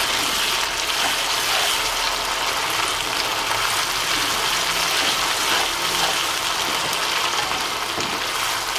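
Blended dried-chili paste sizzling and bubbling in hot oil in a wok: a steady frying hiss, the stage of sautéing the chili until it turns glossy.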